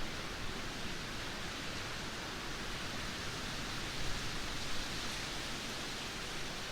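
Heavy downpour of rain falling in a steady, even hiss.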